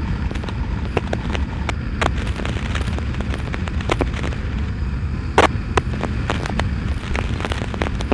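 Motorcycle running with a steady low rumble, overlaid by scattered sharp pops and crackles, the loudest a pair about five and a half seconds in.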